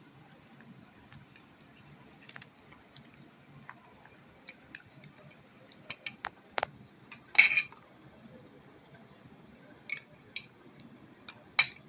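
Scattered light clicks and clinks of cutlery against a dish, loudest a little past halfway and again near the end.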